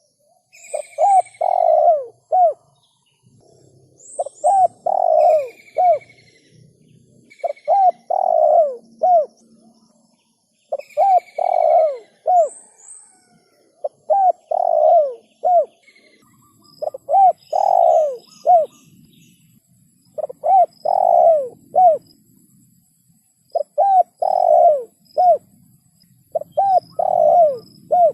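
Spotted dove cooing in repeated phrases about every three seconds, each phrase a few short coos run into a longer one. Faint high chirps of smaller birds sound in the background.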